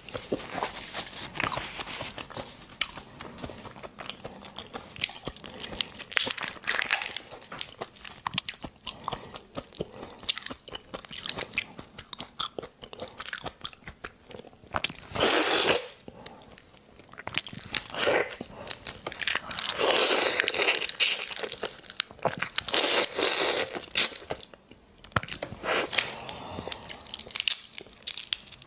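Close-miked chewing and crunching of raw botan shrimp, a dense run of wet mouth clicks and crackles. Shrimp shells and heads are pulled apart by hand, with several louder spells of crunching and tearing about halfway through and again in the last third.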